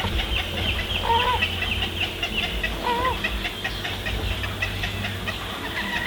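Many wading birds calling at once in a nesting colony: a dense chatter of short, high chirps, with two louder, lower bent calls about a second and three seconds in. A steady low rumble runs underneath.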